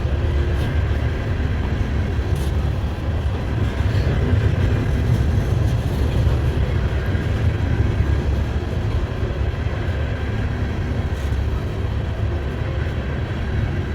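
Low, steady rumble of a slow-moving Norfolk Southern freight train's cars rolling past on the rails.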